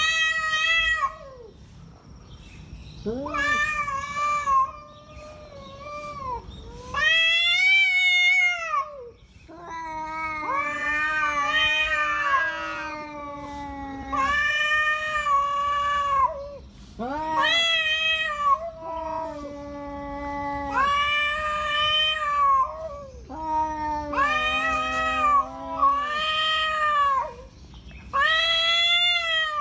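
Two rival tomcats caterwauling at each other in a standoff over a female: long, wavering yowls one after another, sometimes overlapping, one voice lower than the other.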